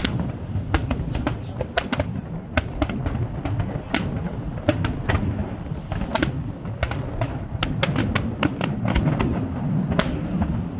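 Fireworks going off: a rapid, irregular series of sharp bangs and crackles over a steady low rumble.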